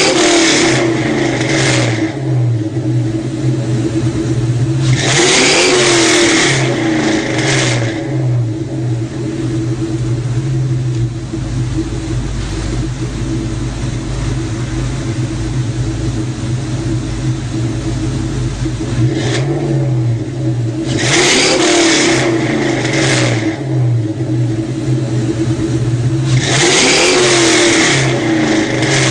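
Car engine idling with an uneven beat, revved up four times in spells of about two to three seconds.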